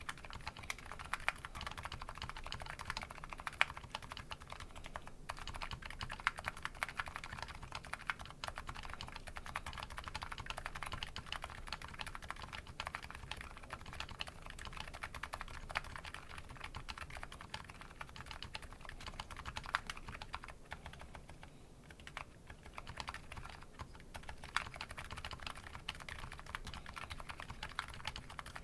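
Continuous fast typing on a Nuxros Kraze custom keyboard fitted with MetaKeebs MetaPulse electrocapacitive (EC) switches: a dense run of short keystroke clacks, thinning briefly a little past two-thirds of the way through.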